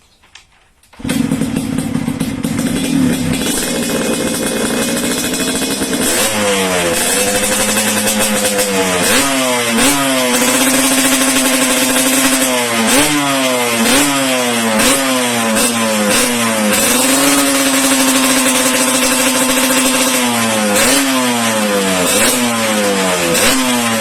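Yamaha RX King two-stroke single-cylinder motorcycle engine, breathing through a stainless WRS racing-style exhaust, starts about a second in and idles. It is then revved in repeated quick throttle blips, each rising and falling in pitch, with one longer steady hold partway through.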